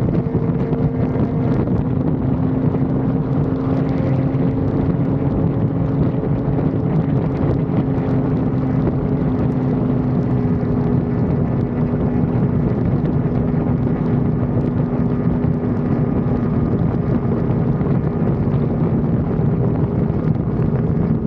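Yamaha R1 sport bike's inline-four engine running at a steady cruise, its pitch sagging slightly over the stretch as the throttle eases, with wind rushing over the action-camera microphone.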